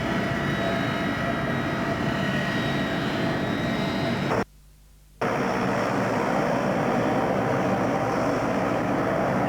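Avro Vulcan B2's Olympus jet engines running with a steady rushing noise and high whine. About halfway through the sound drops out for half a second, then comes back with a somewhat different whine.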